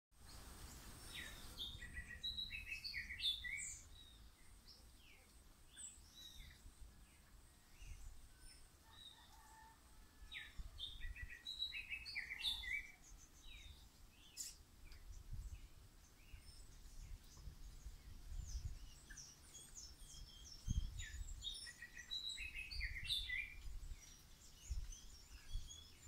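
Birds chirping in short bursts of quick calls, clustered three times (near the start, around the middle and near the end), over a faint, uneven low rumble.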